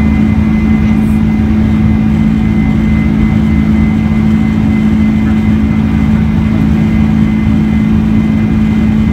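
Steady engine drone of a Boeing 747-400, with a strong low hum and a faint high whine over it.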